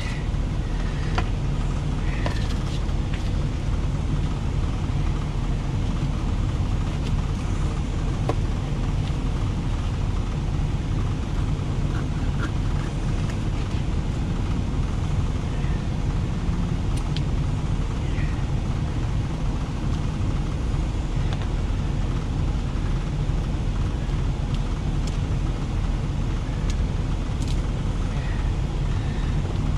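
Steady low rumble of an idling truck engine, heard from inside the cab, with a few faint clicks over it.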